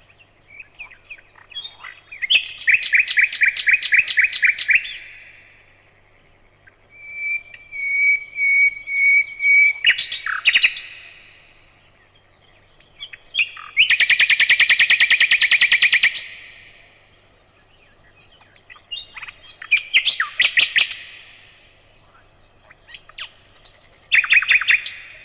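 Nightingale singing: a series of separate phrases of rapid repeated notes, a sustained whistle and a loud fast rattle, each a second or three long with pauses between.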